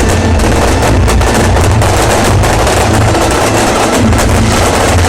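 A fireworks barrage: a dense, unbroken run of rapid cracks and bangs over a deep rumble.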